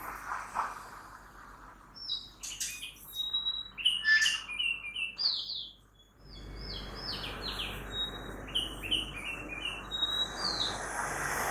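A songbird singing a varied run of short chirps and whistled notes, starting about two seconds in and stopping shortly before the end, over a steady hum of distant road traffic that grows louder in the last few seconds.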